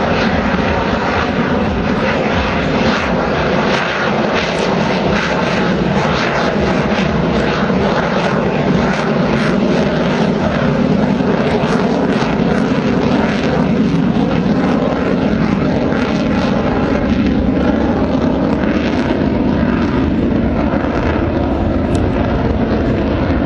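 Airplane engine noise, loud and steady.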